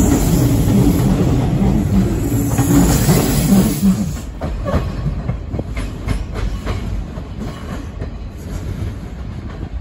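Hanshin electric commuter train departing: loud running noise as the cars pass close for about the first four seconds, then quieter as the train moves away, its wheels clicking and clattering over the rail joints and points.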